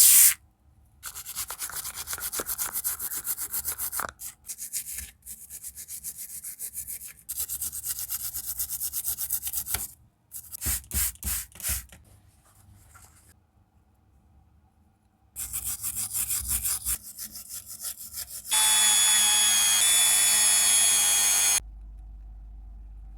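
Repeated fast abrasive strokes on a small metal ring, as in filing and sanding, in several runs separated by short pauses. Near the end comes a loud steady motor whine of about three seconds, as from a rotary tool.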